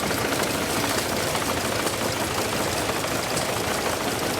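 Antique engine-driven corn feed grinder running steadily, with a rapid mechanical knocking clatter.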